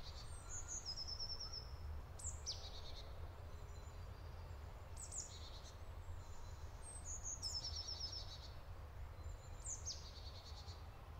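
Faint woodland birdsong: a songbird repeats a short high phrase, a quick downward sweep followed by a run of rapid repeated notes, five times about every two to three seconds, over a low steady rumble.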